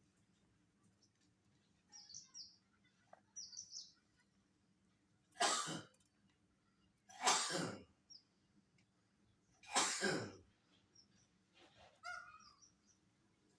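Peacock giving three loud, harsh calls a couple of seconds apart, with faint high chirps of small birds between them.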